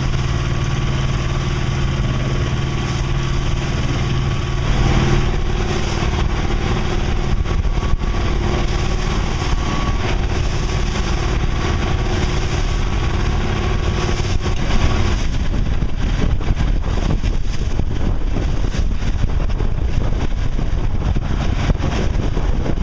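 Sailboat's inboard engine running steadily while motoring into the wind and short, choppy waves, under a rush of wind on the microphone. About fifteen seconds in, the engine hum gives way to wind and water noise alone.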